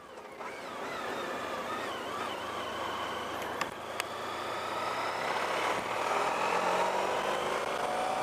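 Honda Pan European motorcycle's V4 engine running under way with wind rush. Its pitch rises steadily through the second half as the bike accelerates. Two small clicks come about halfway through.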